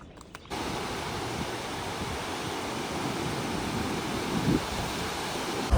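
Steady rush of ocean surf with wind on the microphone, cutting in suddenly about half a second in, with gusts buffeting the microphone toward the end.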